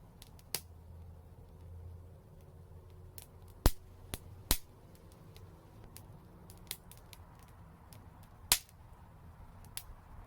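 Wood fire crackling: a scatter of small sharp clicks with three loud pops, the first two close together just before the middle and the third near the end, over a low steady rumble.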